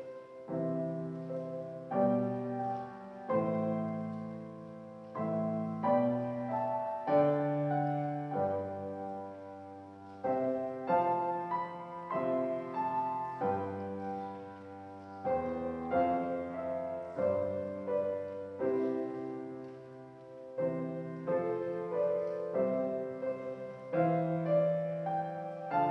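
Slow instrumental keyboard music, with piano-like chords struck every second or two and left to fade.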